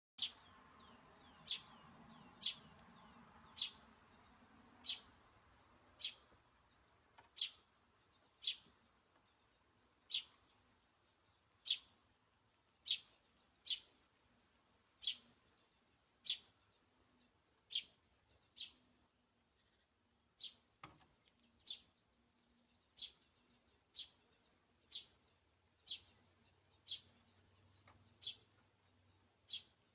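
Great spotted woodpecker repeating its short, high single call over and over, roughly once a second.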